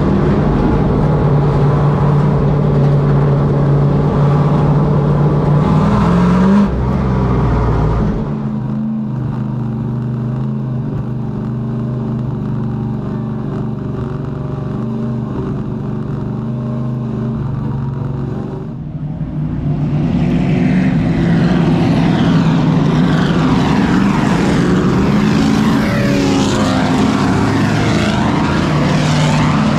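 Race truck engines running at speed, with no speech. A steady drone changes abruptly about seven seconds in to a lower, quieter drone. From about twenty seconds in, several engine notes rise and fall in pitch as trucks go past.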